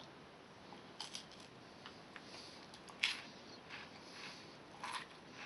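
Faint, scattered crackles and crunches from a Reese's Sticks wafer bar and its wrapper as it is handled and bitten, the sharpest about three seconds in.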